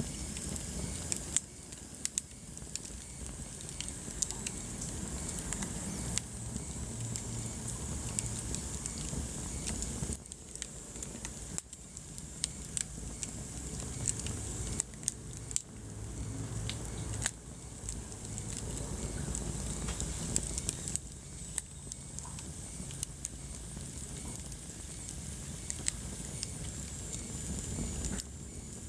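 Wood fire burning in a fireplace: crackling with scattered sharp pops over a low, steady rumble of the flames.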